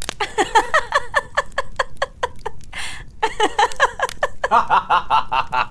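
A woman laughing hard in a fast run of short 'ha' bursts, with a gasping intake of breath about three seconds in before the laughter picks up again.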